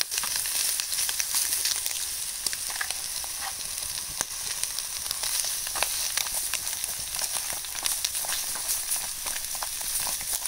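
Vegetables and bacon frying dry in an aluminium tray over a hot charcoal shichirin, with no oil: a steady high sizzle dotted with fine crackles.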